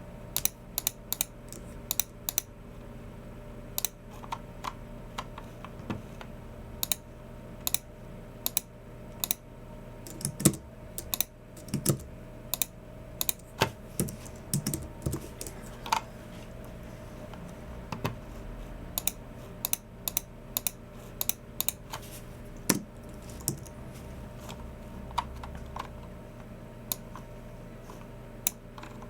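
Typing on a Logicool MX Keys Mini low-profile keyboard: irregular runs of quick key clicks broken by short pauses.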